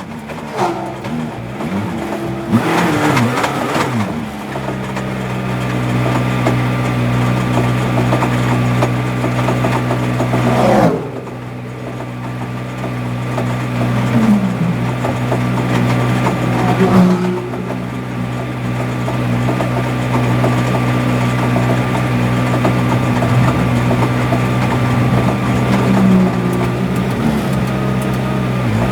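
GT3 race car engine heard from the cockpit, revving up and down in the first few seconds and then running at steady, low revs with little change.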